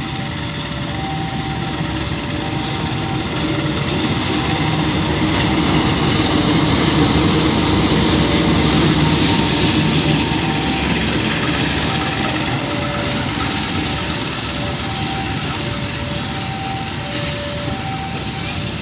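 A passenger train hauled by a diesel-electric locomotive passing, its rolling noise swelling to a peak about halfway through and easing off. Under it a level crossing alarm sounds a steady alternating two-note tone.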